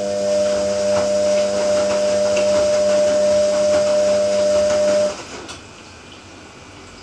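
Ariston AQXL95 washing machine running with a steady mechanical hum over a hiss, stopping abruptly about five seconds in and leaving a faint hiss.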